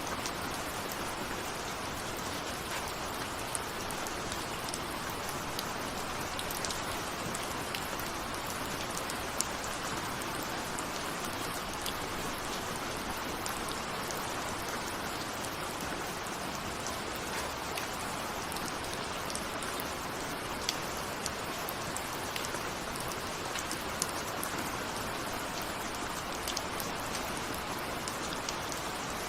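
Steady rain falling, with a continuous hiss and scattered sharp ticks of single raindrops hitting a window.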